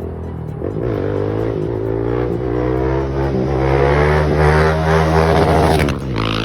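KTM 690 SMC-R single-cylinder engine through a Leo Vince exhaust, revving and accelerating, its pitch climbing and dropping back several times as it grows louder. The sound cuts off abruptly near the end.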